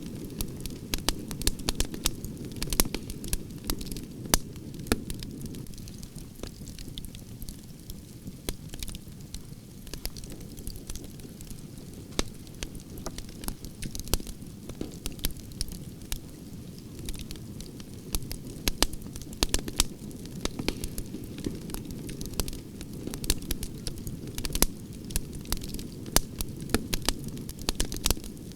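Campfire of burning branches crackling and popping, with many sharp irregular snaps over a steady low rumble of the flames.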